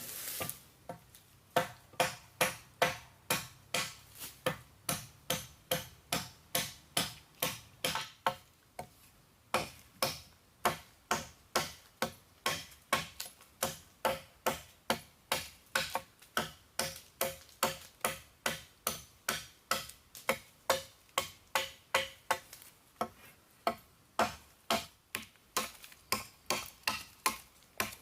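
A rapid series of sharp knocks, about two to three a second, with a short pause about nine seconds in.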